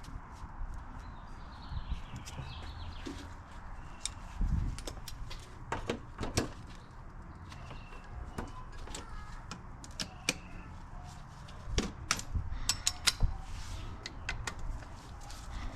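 Irregular metallic clicks, clinks and light knocks of hand tools and parts being handled on a Honda CBR600RR engine during disassembly, with the sharpest ones coming in two clusters.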